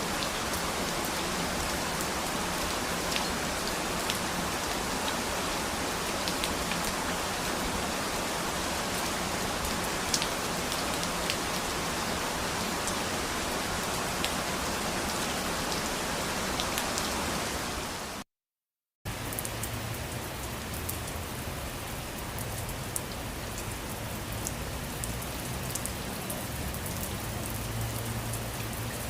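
Steady rain falling on a surface, a dense even hiss with individual raindrops ticking through it. About eighteen seconds in it cuts to silence for under a second, then resumes a little duller and with more low rumble.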